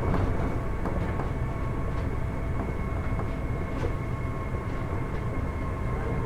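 Kitakyushu Monorail Series 1000 car, refurbished with Hitachi IGBT-VVVF drive, running at steady speed: its rubber tyres rumble steadily on the guideway under a steady high whine, with a few light clicks.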